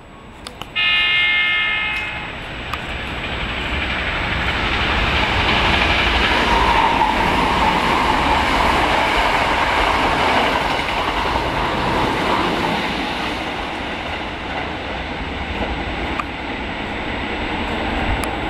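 A Hankyu electric train gives a short horn blast about a second in, then passes with a loud, steady rumble of wheels on rails that swells and slowly fades.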